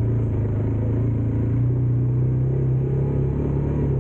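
Dirt bike engine running at a steady, moderate speed, its pitch edging up slightly partway through.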